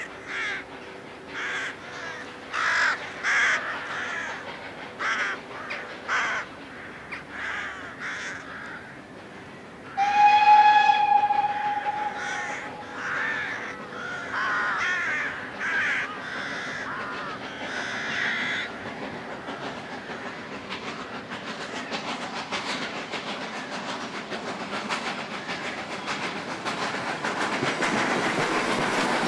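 Crows cawing over and over, with a train horn sounding one long steady note about ten seconds in. From about twenty seconds in, an approaching train's rumble grows steadily louder.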